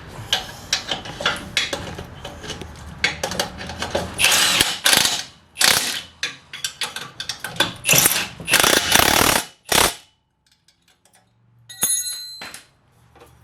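Impact wrench hammering in a run of short bursts, tightening the mounting bolts on a new muffler. Near the end, after a brief pause, there is a short metallic ring.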